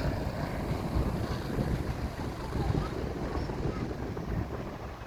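Wind buffeting the microphone, a low rumble with no clear tone, while the propeller aircraft's engine note has faded away after its approach.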